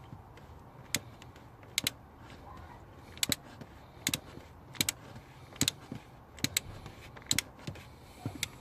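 Socket ratchet clicking in short back-and-forth strokes: sharp metallic clicks, often in pairs, about one stroke every second.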